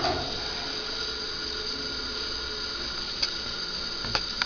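Steady room hum and hiss with a faint whine, and a few light clicks near the end.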